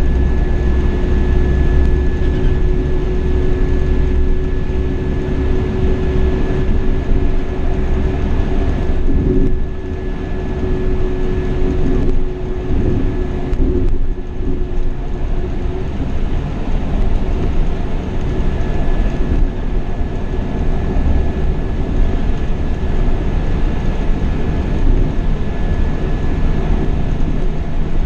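Scania K420 coach's diesel engine running under way, with a steady drone, road rumble and a thin high whine over it; the sound eases briefly about ten seconds in and again a few seconds later.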